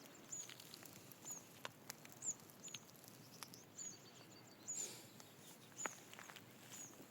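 Faint, high, short chirps of a small bird repeating about every half second, with a brief trill about halfway through and a few light clicks.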